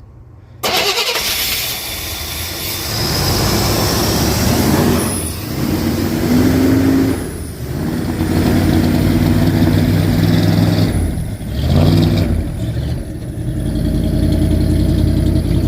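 Old Chevrolet Suburban's engine catching suddenly about half a second in, then running rough, its speed sagging and picking up again three times before steadying near the end. The roughness is probably from the old gas in it.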